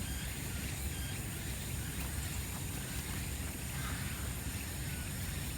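Steady outdoor background noise: a low rumble with an even high hiss, and a few faint short chirps.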